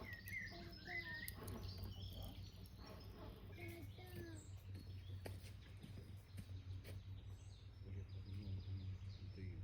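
Small songbirds chirping in short, quick phrases, busiest in the first few seconds and sparser after. Scattered faint clicks and a steady low hum sit underneath.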